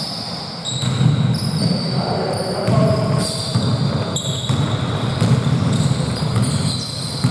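Basketball play on an indoor court: shoes squeaking in many short, high chirps and the ball bouncing with sharp knocks, over a steady low rumble in a reverberant hall.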